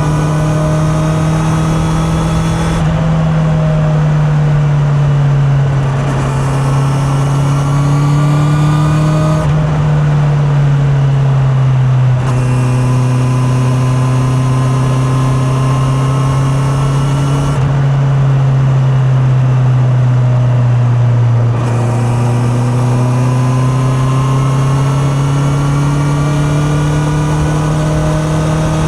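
Honda CB650R's inline-four engine running under way, heard from a mic in the rider's pocket. The note climbs slowly and falls back about five times as the throttle and revs change.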